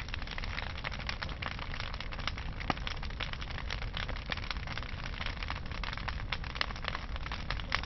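Large wood bonfire burning, with dense, irregular crackling and popping over a steady low rumble of flame.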